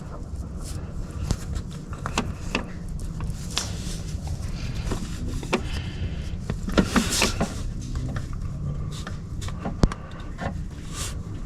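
Hand tools and metal parts clinking, knocking and scraping during work in an engine bay, loudest in a rattling cluster past the middle and a sharp knock near the end, over a steady low hum.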